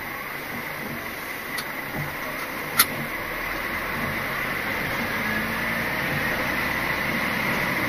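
Lorry engine running as heard inside the cab, its noise slowly building as the truck pulls away, with a steady faint whine and one sharp click about three seconds in.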